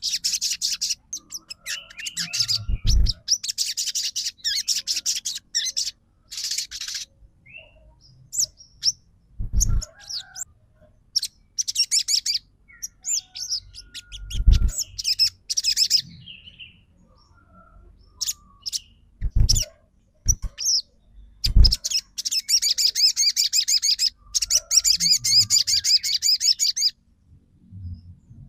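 Sogon (crimson sunbird) singing its rapid chattering song in bursts of dense, fast high notes a second or more long, with short gaps between them. The song is trotol, the fast rattling style used as a lure to make other sogon birds respond. A few dull thumps come in between the bursts.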